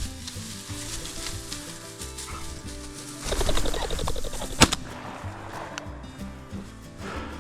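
A pheasant flushing with a flurry of rapid wingbeats and cackling about three seconds in, then a single shotgun shot, under background music.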